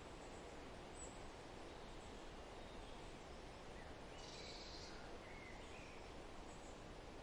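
Quiet forest ambience: a steady soft hiss of background noise with a few faint, distant bird calls, including a brief high buzzy trill about four seconds in.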